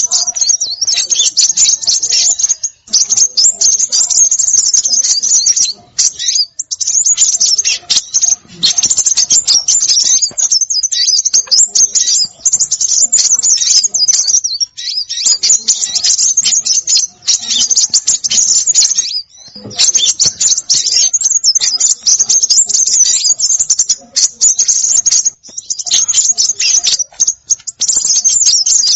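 Bird-lure recording of small songbirds: dense, rapid, high-pitched chittering and twittering in long runs broken by brief pauses.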